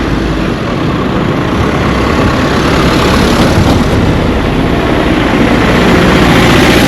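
A motor vehicle on the road, its engine and tyres growing steadily louder as it approaches and is loudest near the end, over a rough rumble of wind on the microphone.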